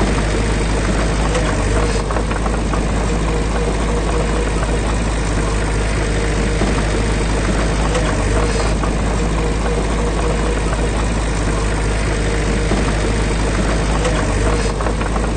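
Heavy construction machine's diesel engine running steadily with a constant low drone.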